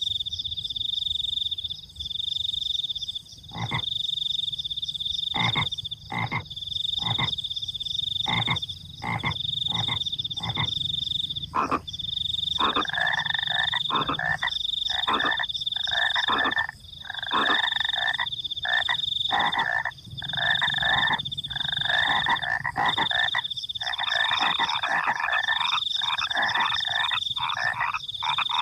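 A chorus of frogs croaking over a steady high trill of crickets that breaks off briefly every second or two. The croaks start out spaced, a couple a second, and become a dense overlapping chorus about halfway through.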